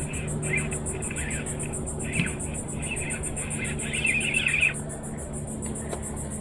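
Insects chirring in a fast, even pulse over a steady low hum, with patchy chirping that stops about three-quarters of the way through.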